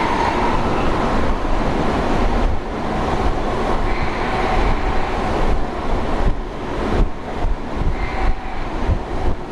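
London Underground 1996 Stock train running along the Jubilee line: a steady rumble with a whine that comes and goes. Sharp clicks from the wheels over the rails come through in the second half.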